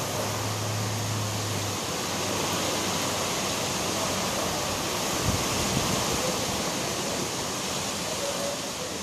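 Steady noise of a storm: strong wind and heavy rain. A low hum stops about two seconds in, and there is a single knock about five seconds in.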